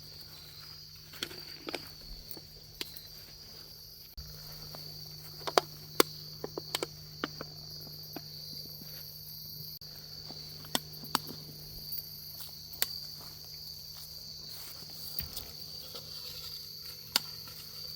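Crickets chirping in a steady, high-pitched chorus. Scattered sharp clicks and crunches of footsteps and of litter being handled and picked up sound over it.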